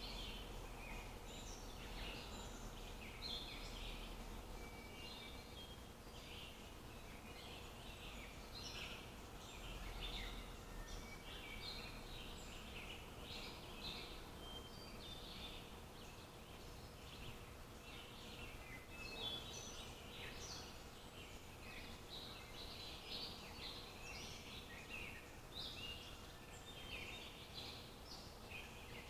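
Many small birds chirping and twittering continuously, overlapping in a faint, busy chorus over a low steady background hum.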